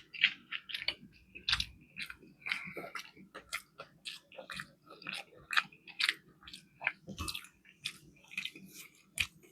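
A person chewing a fish fillet sandwich: a run of irregular wet mouth smacks and clicks, a few each second.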